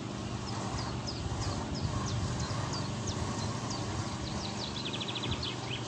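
Wild birds singing: a run of short, high, falling chirps about three a second, ending in a fast trill near the end, over a steady low outdoor rumble.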